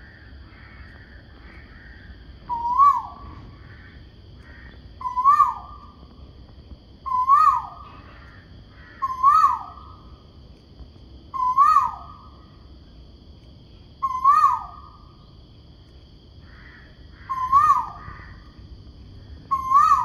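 A bird calling a loud 'ku-oo', one note that rises and then drops sharply, repeated about every two to three seconds, eight times in all, beginning about two and a half seconds in.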